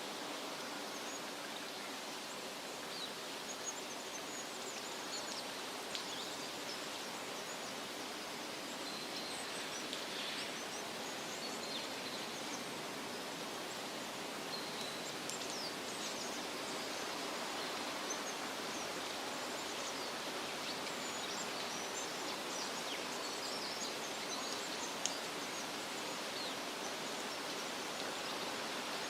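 Steady rustling of wind through leafy trees, with faint, short bird chirps scattered throughout.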